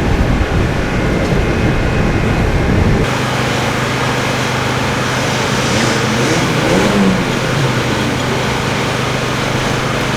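Racing car engine at speed on a hillclimb course, loud and rumbling, then changing abruptly about three seconds in to a steadier engine hum with a few rises and falls in revs.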